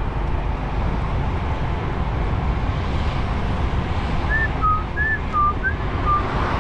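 Steady engine and road rumble inside a DAF XF truck cab. About four seconds in, a short whistled run of about six clear notes, alternating high and low.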